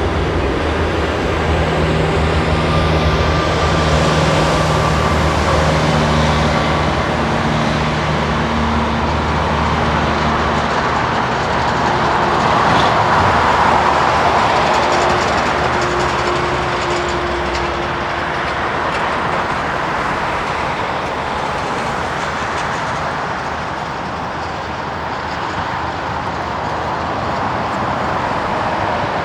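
Jet engines of an Airbus A320-200 running loud and steady, swelling to a peak about halfway through and easing off after.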